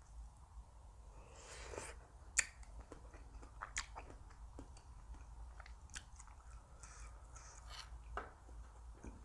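Close-miked eating: a person chewing and biting food, with scattered sharp clicks. The loudest click comes about two and a half seconds in.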